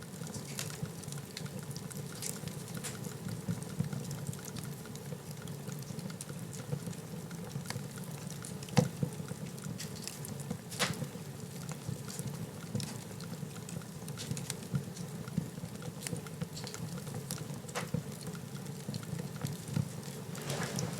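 Wood fire burning in a fireplace: a steady low rustle of flames with scattered crackles and pops, one sharp pop about nine seconds in.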